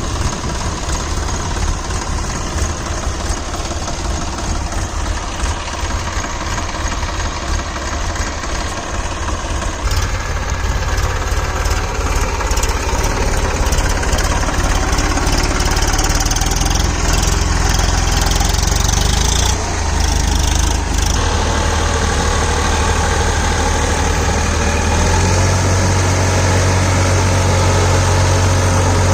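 Massey Ferguson 7250 DI tractor's diesel engine running steadily, getting louder about a third of the way in and settling into a heavier, steady hum near the end.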